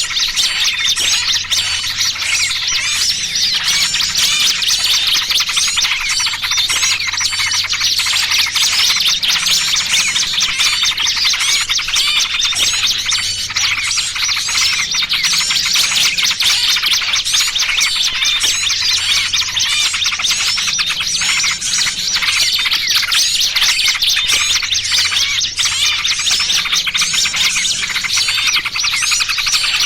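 Dense, non-stop chorus of small birds chirping and twittering in fast overlapping calls: a bird-trapping lure recording that mixes noisy yellow-vented bulbul chatter with the distress calls of a pinched small bird.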